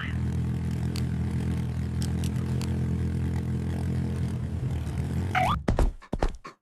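Cartoon sound effects: a steady low hum that cuts off abruptly about five and a half seconds in, followed by a quick run of thumps.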